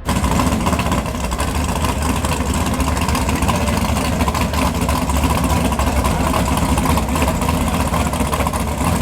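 Race car engine idling loudly with a deep, rapidly pulsing rumble, starting abruptly and running steadily.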